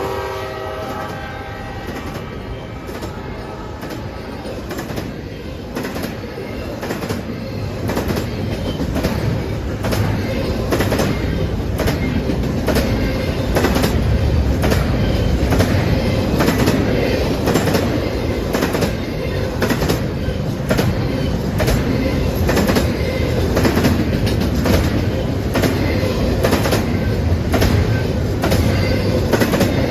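A train's horn fades out right at the start, then railroad cars roll past with a steady rumble and a regular clickety-clack of wheels over rail joints, getting a little louder after several seconds.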